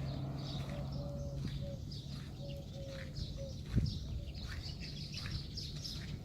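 Many small birds chirping in quick, repeated short calls, with a string of lower short notes in the first half. A steady low hum runs underneath, and there is a single knock a little past halfway.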